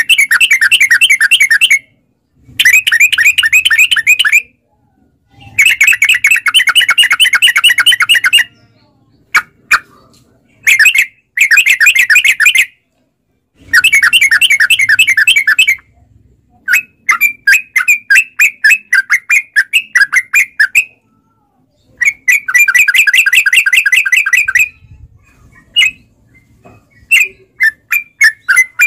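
Yellow-vented bulbul (trucukan) singing in long runs of rapid repeated chattering notes. The runs last one to three seconds each, with short pauses and a few single notes between them.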